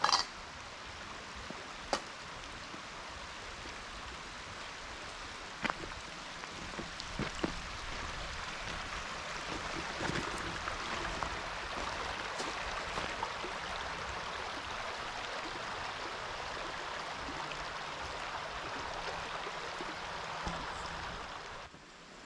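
Steady rushing of a river, with a few sharp clicks or knocks in the first third.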